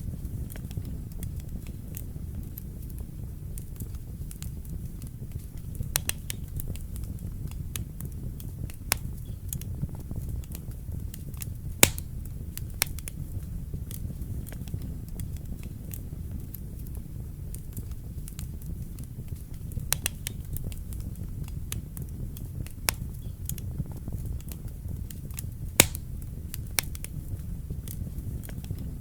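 Wood fire burning in a fireplace: a steady low rumble of flames with irregular sharp crackles and pops, the loudest about twelve seconds in and again near the end.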